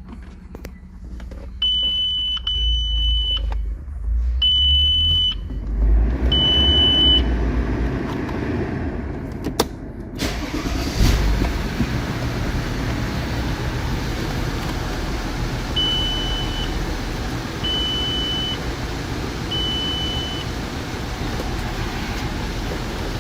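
Audi A6 C6 with its repaired steering-lock module: the dashboard warning chime beeps several times over a low rumble. Then the engine starts and runs steadily, and the chime beeps three more times in a row.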